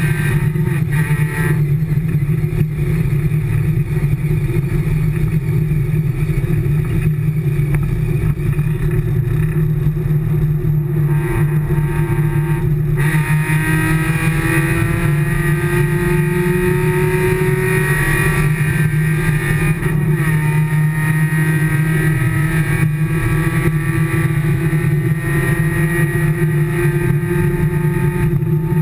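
Race car engine heard from inside the cockpit, running hard on track, its pitch climbing and dropping through gear changes, with a brief dip about thirteen seconds in.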